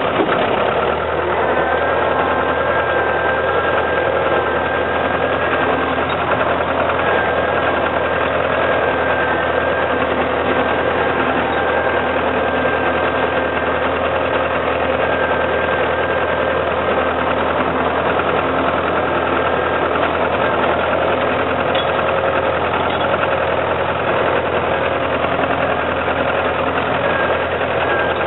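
Car engine running steadily at an unchanging pitch.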